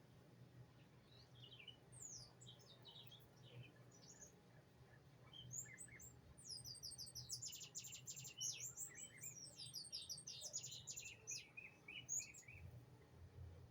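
Small songbirds chirping and twittering, faint and high-pitched, with a quick run of rapid repeated notes in the middle.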